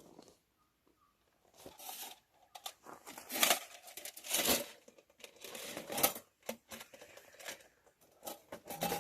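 Plastic packaging being handled: a series of short crinkling, tearing rustles, the loudest about three and a half, four and a half and six seconds in.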